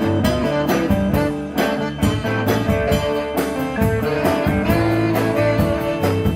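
Blues band playing live, with held notes over a steady drum beat.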